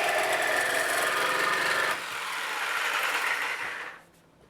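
Electric power tool working on steel stock, running steadily. It dips about two seconds in and stops shortly before the end.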